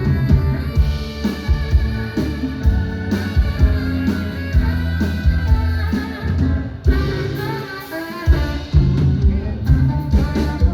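Live band music played through a PA, with drum kit and electric guitar under a singing voice.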